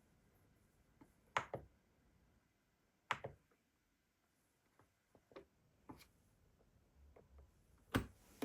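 Scattered sharp clicks and knocks, some in quick pairs. The loudest comes near the end, against a quiet background with no steady machine noise.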